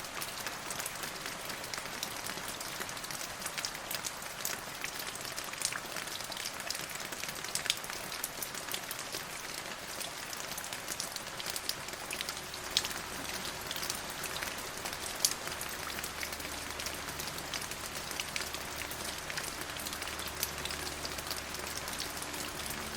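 Steady rain falling, an even hiss with many individual drops ticking sharply on a surface. Soft, low, sustained tones come in faintly about halfway through and hold under the rain.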